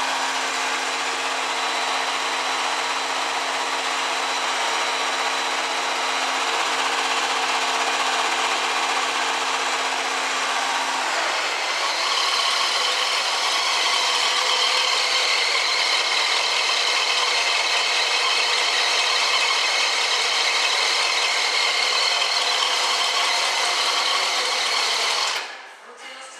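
1968 Chevrolet El Camino running with its air conditioning on, a steady rush of blower air with a low hum under it. About eleven seconds in the hum drops away and a brighter hiss takes over, which cuts off suddenly near the end.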